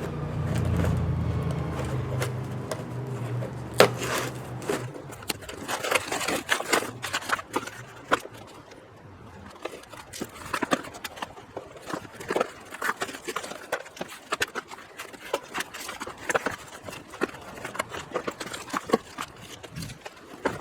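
A low hum that dies away about four seconds in, then irregular clicks and knocks of tools and parts being handled.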